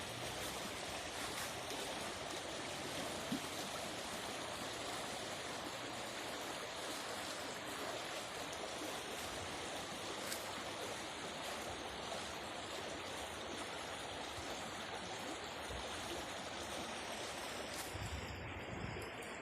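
River rapids rushing steadily, an even wash of water noise. A few low thumps come near the end.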